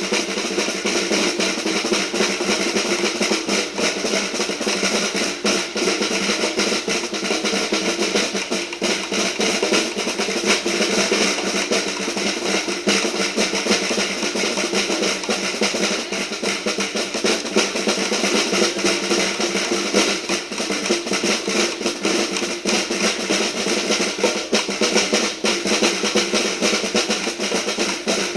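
A children's marching band playing, led by many small snare drums beating together in a dense, continuous roll, with pitched melody instruments sounding steadily along with the drums.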